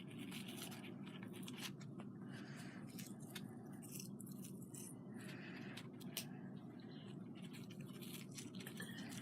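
Faint rustling and small scattered clicks of craft materials being handled, such as artificial flowers being clipped and placed, over a steady low hum.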